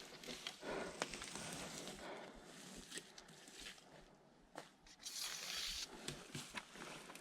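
Faint rustling and handling noises with a few light clicks, and a brief louder rustle about five seconds in.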